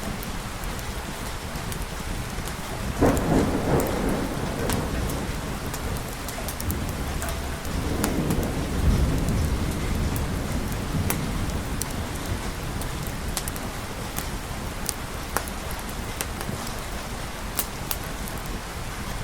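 Steady rain falling with a thunderstorm: a sudden crack of thunder about three seconds in that rolls on, and a second low rumble of thunder a few seconds later. Scattered sharp ticks sound throughout over the even hiss of the rain.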